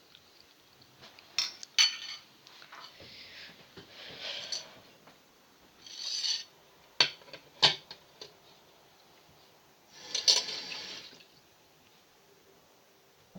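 Handling noises: several sharp knocks and clinks of hard objects, like dishes or utensils being set down, with short rustling hisses in between.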